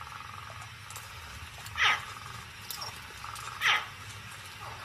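Nile crocodile hatchlings calling: two short chirps that fall in pitch, about two seconds apart.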